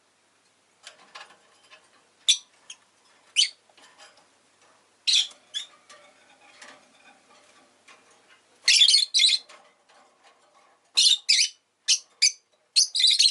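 Peach-faced lovebird chirping in short, sharp high calls, scattered at first, with a loud double call about nine seconds in and a quick run of chirps from about eleven seconds on.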